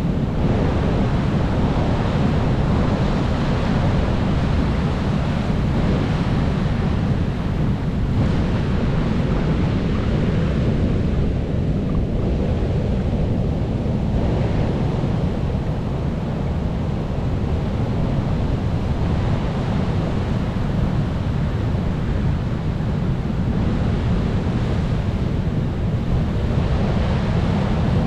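Sea waves breaking and washing in on a shore, one after another: a steady rush of surf whose hiss swells and eases every few seconds.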